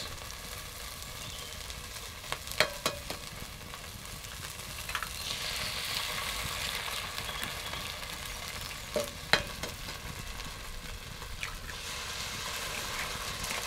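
Diced potatoes and wild garlic sizzling in a hot cast-iron Dutch oven as eggs are added, with a few sharp taps of eggshell being cracked. The sizzle swells for a few seconds around the middle as the first egg hits the hot pan.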